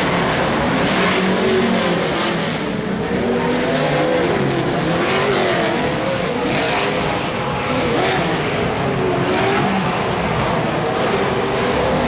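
Several off-road racing engines running hard at once, their pitches rising and falling as the drivers work the throttle.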